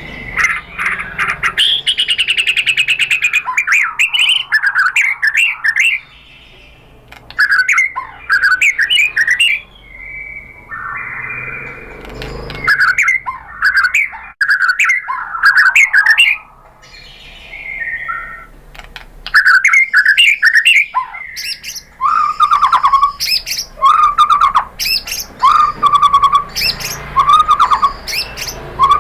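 White-rumped shama (murai batu) singing loudly in fast bursts of varied whistled phrases and quick clicking chatter, with short breaks about a fifth and three fifths of the way through; near the end it repeats one lower whistled phrase about once a second. It is the excited, full song a shama gives when provoked.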